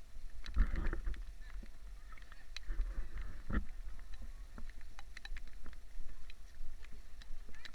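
Heavy rain falling, with many scattered drops ticking on hard surfaces over a low rumble.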